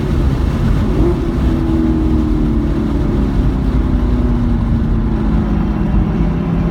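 Car engine running at low revs on a wet track, its pitch falling slowly and steadily, over loud road and wind noise.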